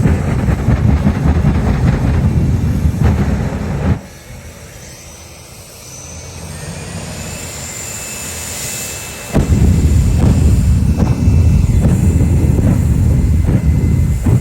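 Jet truck's jet engine running loud, with a heavy low rush of noise. About four seconds in it drops suddenly to a quieter high turbine whine that glides upward. It comes back to full loudness abruptly after a few seconds more, with crackling.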